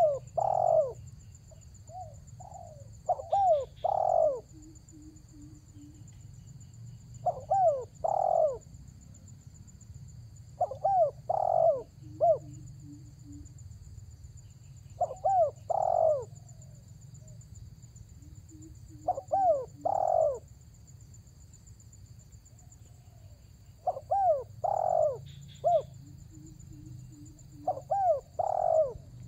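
Spotted dove (tekukur) cooing, a phrase of two or three coos repeated about every four seconds, seven or eight times. A faint steady high whine runs behind it.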